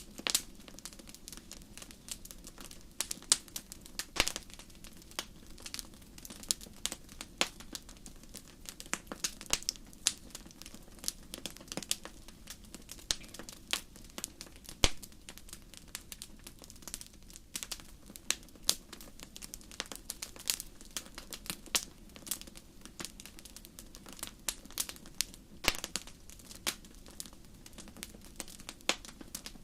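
Wood campfire crackling: irregular sharp pops and snaps, some much louder than others, over a steady low hum of the burning fire.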